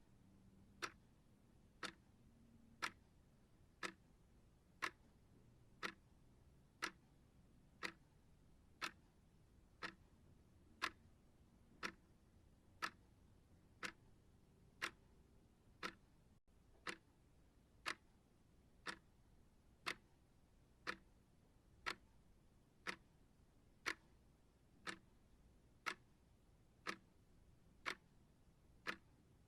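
Clock ticking steadily, one gentle tick a second.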